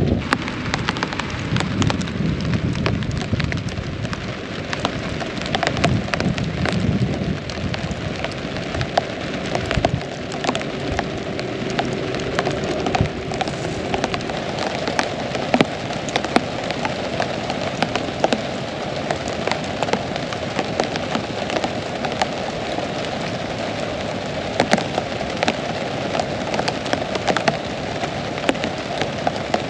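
Heavy rain falling steadily, with countless sharp drops striking a surface close by. A low rumble sits under the rain for the first several seconds.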